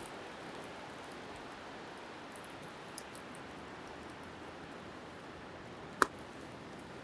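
Wood fire crackling with faint ticks and one sharp pop about six seconds in, over a steady rush of wind and waves.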